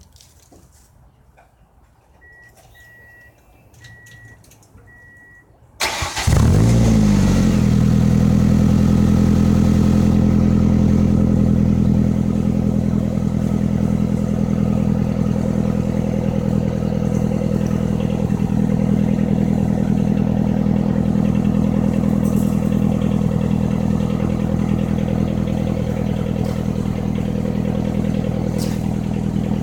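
Four short electronic beeps, then the 1999 Ford Escort ZX2's 2.0-litre twin-cam Zetec four-cylinder is cranked and catches about six seconds in. It runs loud through a straight-piped exhaust with no muffler or resonator. It idles fast at first and settles to a steady idle about twelve seconds in.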